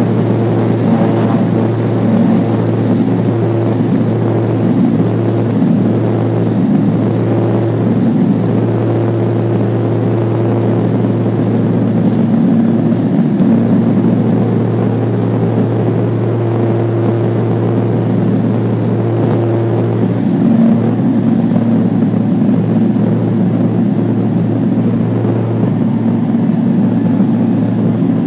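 Twin turboprop engines and propellers of a Beechcraft 1900C running steadily: a loud, continuous propeller drone with a strong low hum and several steady tones above it. The tones shift slightly about two-thirds of the way through.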